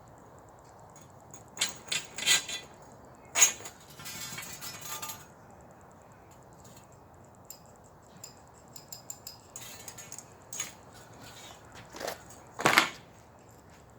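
Metal awning poles clinking and knocking as they are pulled apart and handled, with a few sharp clanks and a short rattle. Scattered lighter clicks fill the gaps.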